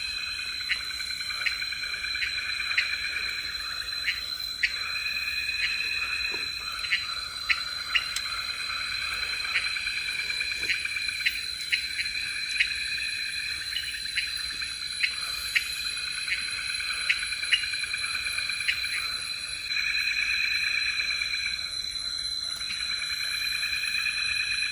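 Night-time tropical forest insect chorus: a steady high-pitched drone over a dense, pulsing chirring, with short sharp clicks repeating about once a second.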